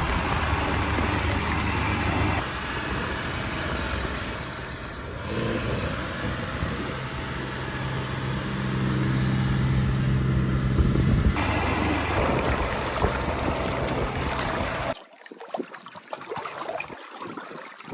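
Heavy tractor diesel engines running, a steady engine hum that changes character at several cuts and is strongest in the middle. About fifteen seconds in it drops away to quieter wind and water noise.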